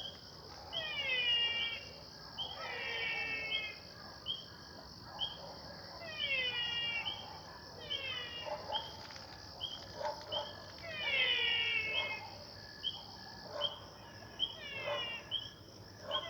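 Night marsh chorus: crickets trilling steadily and high, frogs giving short repeated chirps, and dogs barking in the distance, a falling bark or yelp every second or two.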